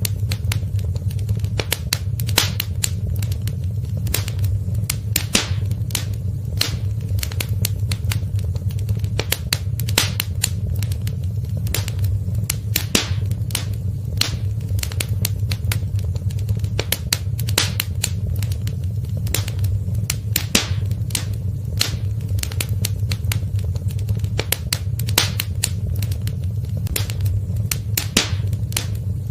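Wood fire crackling in a fireplace: frequent sharp pops and snaps at an irregular pace over a steady low rumble of burning.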